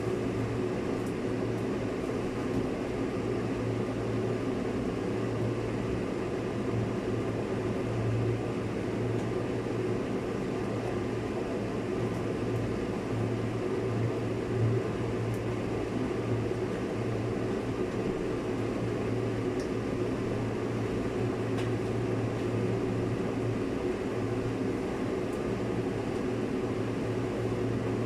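A steady machine hum, even and unbroken, with a few faint ticks.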